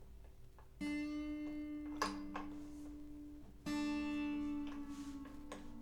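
Steel strings of an acoustic guitar ringing out, set sounding twice, about a second in and again past the middle, with a few sharp clicks. Near the end one string's pitch slides down as it is slackened.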